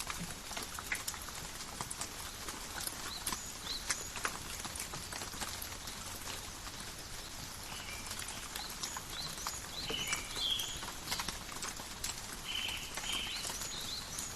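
Steady rain falling in a forest, with many single drops ticking close by. Short high chirps come and go over it, a few louder ones about two-thirds of the way in and near the end.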